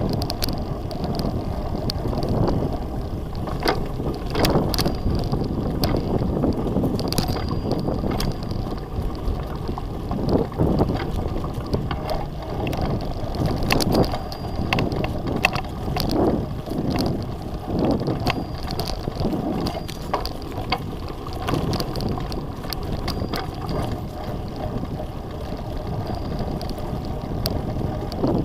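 Wind buffeting the microphone during a bicycle ride, over a steady rumble, with frequent short clicks and rattles from the bike on an uneven track.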